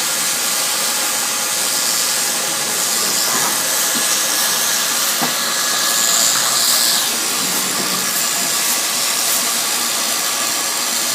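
Electric sheep-shearing handpiece running steadily through a lamb's wool, a dense, even hiss.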